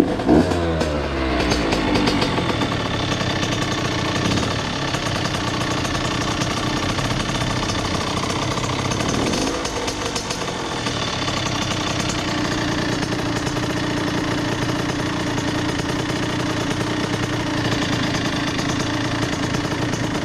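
Honda CR80's two-stroke single-cylinder engine idling while its idle screw is turned up because the idle was too low. It revs up and down a couple of times in the first two seconds, dips and picks up again about ten seconds in, then settles into a steady idle.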